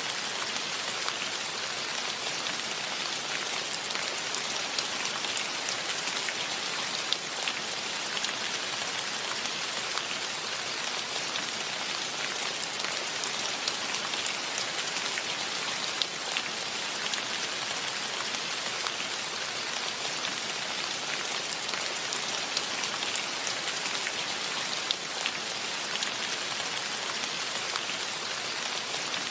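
Steady rain falling, an even hiss of drops with many small ticks and a few louder drop hits scattered through it.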